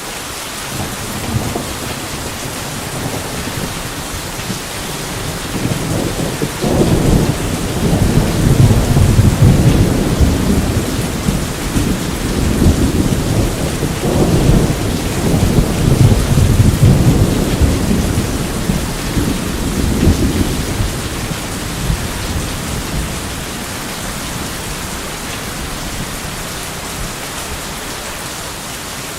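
Steady heavy rain with a long peal of thunder rolling in about a quarter of the way through, rumbling deep for some fifteen seconds and fading away, leaving the rain.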